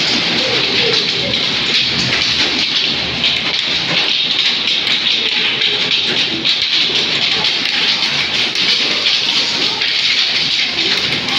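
Heavy rain beating on window glass, a loud, steady hiss with no break.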